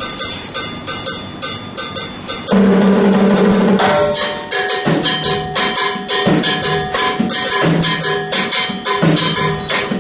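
Drum kit playing a fast timbale-style pattern of quick, sharp strokes, with a denser fill about two and a half seconds in before the steady pattern returns.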